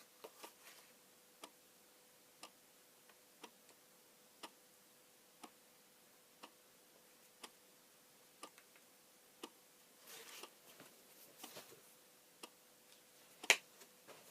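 A clock ticking faintly and evenly, about once a second, over a faint steady hum. Some rustling comes about ten seconds in, and a sharper click comes near the end.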